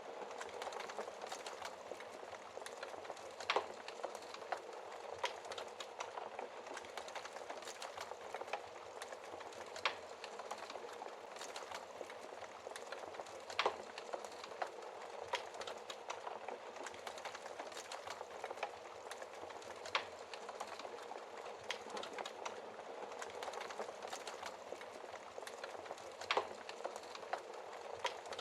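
Wood burning in a fireplace: a dense run of small crackles over a soft hiss, with about five louder pops spread through it.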